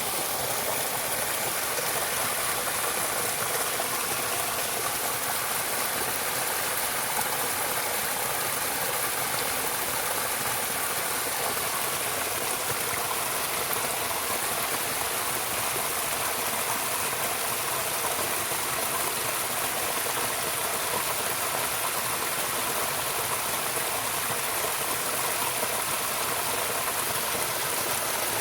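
Running water rushing steadily, as from a stream.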